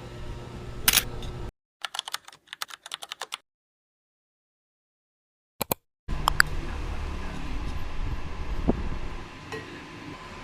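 A quick run of about a dozen light, sharp clicks, then two more after a pause, followed by steady low room noise with a few faint clicks.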